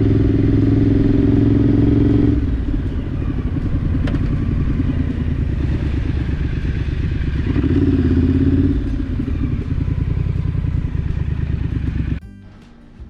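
Triumph Scrambler parallel-twin motorcycle engine running under way, pulling steadily at first. The note drops about two seconds in and climbs again briefly around eight seconds. It cuts off suddenly near the end.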